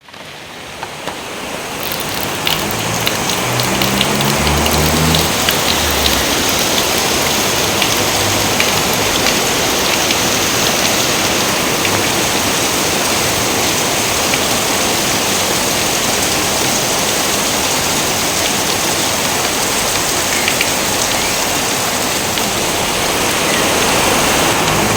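Steady rain falling, with scattered sharp drop ticks. It fades in over the first few seconds, then holds even.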